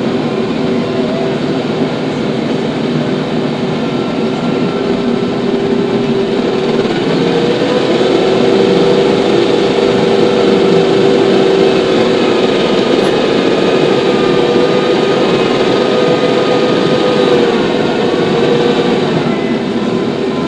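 TYM T574 tractor engine running steadily. Its drone shifts up in pitch and gets a little louder about seven seconds in, then settles back near the end.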